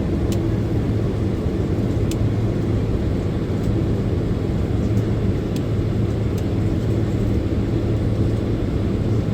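Steady low drone inside the cabin of a Boeing 767-300ER airliner, engines running while the aircraft taxis, with no change in pitch or level. A few faint clicks sound over it.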